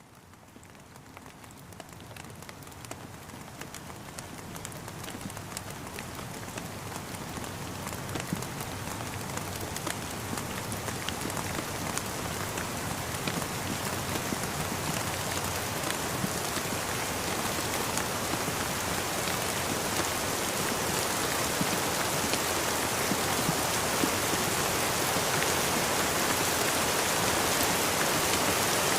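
Steady rain falling, with many small drops tapping. It fades in from near silence and grows steadily louder through the whole stretch.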